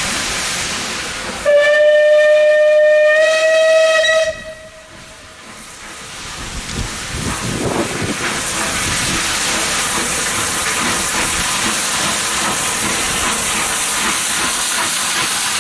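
Steam locomotive whistle blown once for about three seconds, its pitch stepping slightly up partway through. A steady loud hiss of escaping steam then builds up and carries on.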